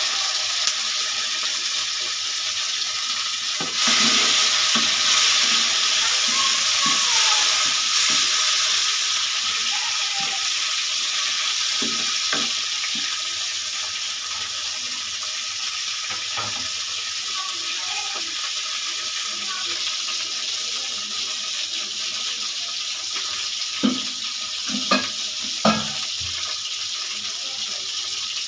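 Chopped tomatoes, onions and green chillies sizzling in hot oil in a non-stick wok, stirred with a wooden spatula. The sizzle is loudest a few seconds in, then settles to a steady hiss, with a few sharp knocks of the spatula against the pan near the end.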